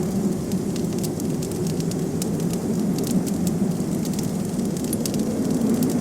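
Wood fire crackling, with irregular sharp pops and snaps, over a steady low rush of blizzard wind.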